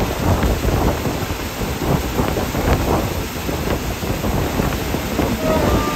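Moving passenger train heard from on board: a steady loud rumble with many small knocks and rattles. A faint high steady tone sets in near the end.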